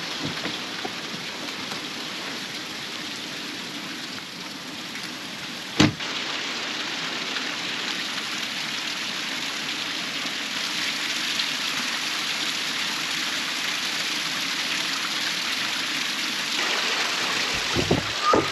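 Flowing water rushing steadily, with one sharp knock about six seconds in.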